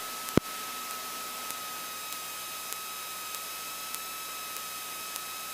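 Radio and intercom headset line in a pause between transmissions, with a steady hiss, a faint steady high whine and faint evenly spaced ticks. A single click comes shortly after the start.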